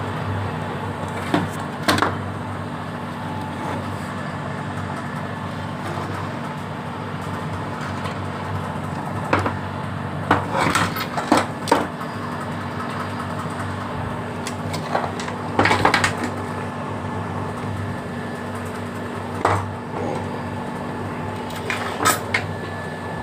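A steady electrical hum from an electric welding machine under repair, with sharp clicks and knocks every few seconds from tools and parts being handled.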